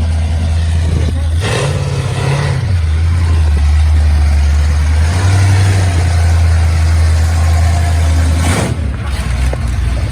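Trucks driving past in a procession, their engines running with a deep steady drone that swells twice. Two brief loud whooshes stand out, about a second and a half in and near the end.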